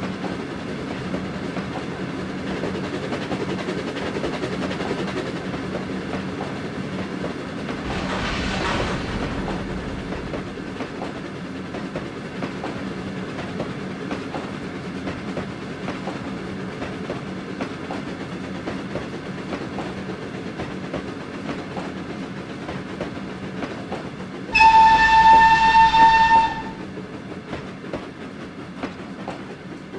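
Steam-hauled train of LNER A3 Flying Scotsman running along the track with a steady rumble and clickety-clack of wheels over rail joints. Near the end, a loud single-note whistle blows once for about two seconds.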